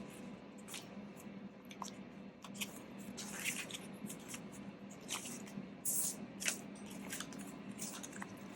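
Banknotes and binder envelopes being handled: soft, scattered rustles and small clicks, over a faint steady hum.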